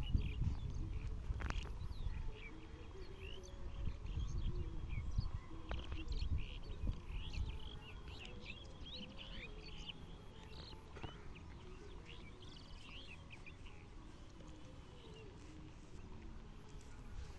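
Many small birds chirping and twittering, busiest in the first ten seconds or so and thinning out toward the end, over a low rumble that fades after the first few seconds.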